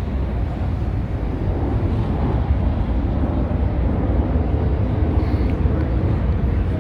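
A car engine running with a low, steady rumble, mixed with open-air road noise.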